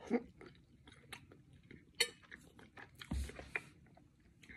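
Close-up chewing and small mouth sounds as a forkful of jackfruit pot roast is eaten, with a few faint fork clicks, the sharpest just after the start and about two seconds in.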